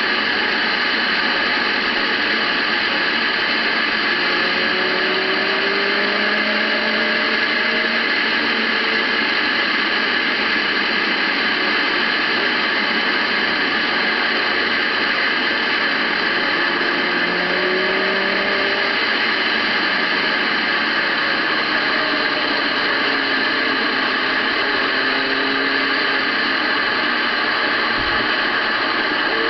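Steady wind rush over the microphone of a moving motorcycle, with the engine note faintly underneath, rising and falling several times as the throttle opens and closes.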